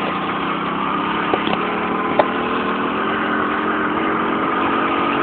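Honda C50 fitted with a 90cc four-stroke single-cylinder engine, running under way, its engine note rising slowly as the bike picks up speed. Two short sharp knocks come about one and a half and two seconds in.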